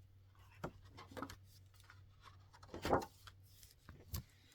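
Paper-handling sounds of a picture book being opened and its pages turned: a few short soft rubs and taps, the loudest about three seconds in, over a low steady hum.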